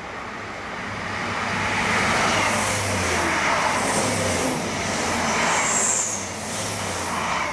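South Western Railway passenger train passing through the station at speed without stopping: a rushing wheel-and-air noise that builds over the first two seconds and then holds steady, with a low drone underneath.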